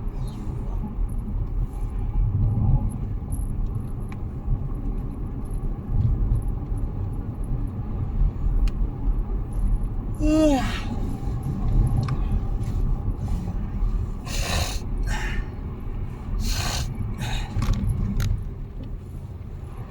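Road rumble of a moving car heard from inside the cabin, steady and low-pitched. About ten seconds in a brief squeal falls quickly in pitch, and in the later part several short hissy bursts sound.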